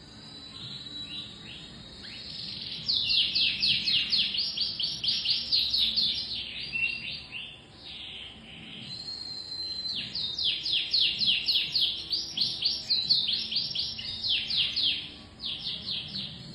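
Domestic canary singing: two long runs of fast, repeated, falling trill notes, with softer, slower phrases and a thin held whistle between and around them.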